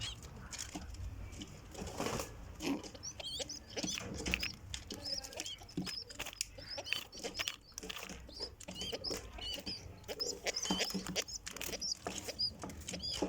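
Pigeon squabs in the nest making many short, high squeaks over scratching and rustling of nest material.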